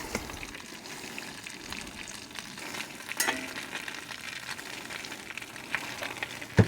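Butter and a tortilla frying in a cast iron skillet, a steady sizzle, with a light knock about three seconds in and another near the end.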